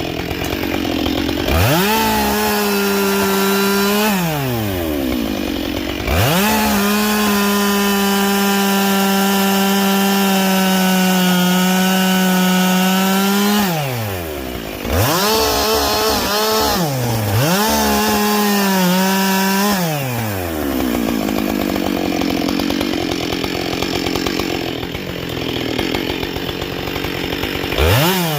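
Husqvarna 572XP two-stroke chainsaw brought up to full throttle about five times, each time holding a steady high note for a few seconds (the longest for about seven seconds) before dropping back toward idle.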